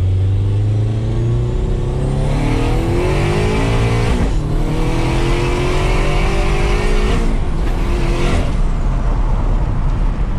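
Turbocharged Scion FR-S flat-four, running on E85, at full throttle heard from inside the cabin: the engine note climbs through first gear, drops at an upshift, climbs through second, drops at a second shift and pulls briefly in third before lifting off.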